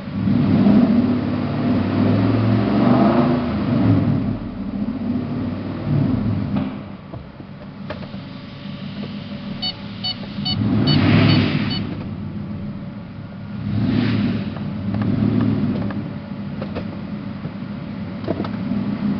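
Nissan Titan's 5.6-litre V8 running, with the engine revved up and let fall back several times: near the start, about halfway through, and twice more a few seconds later.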